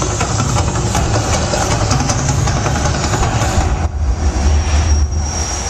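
Loud, deep rumble of the Mirage volcano show's eruption, swelling about four seconds in and easing off near the end.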